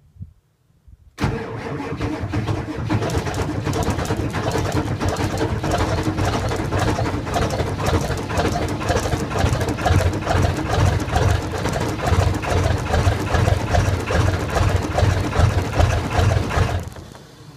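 A 1997 Ford 7.3 L Power Stroke V8 turbo-diesel being cranked in a cold-start attempt at about 0 degrees. It kicks in suddenly about a second in, runs hard and rapidly for about fifteen seconds, then stops abruptly near the end.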